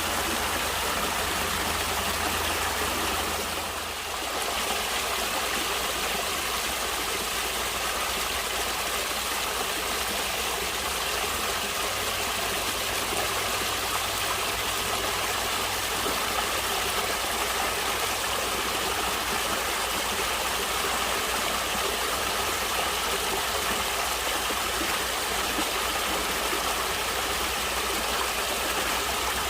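Steady rush of water flowing in a natural stream, dipping briefly about four seconds in.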